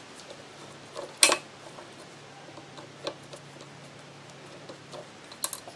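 A few sharp metal clinks and knocks from hand tools and small parts of the drill grinder motor being taken apart: a loud one about a second in, another near the middle, and a quick double clink near the end, over a faint steady hum.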